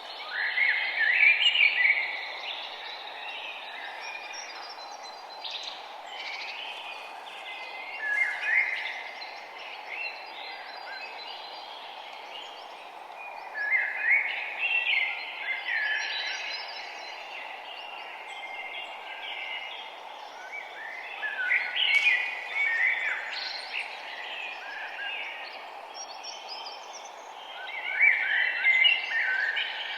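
Songbird singing repeated phrases of a second or two, about every six to seven seconds, over a steady background hiss.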